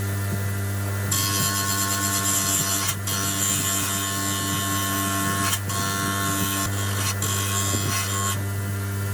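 Small power tool running with a steady motor hum. From about a second in until near the end it works against a surface with a loud hissing grind, broken by a few short breaks.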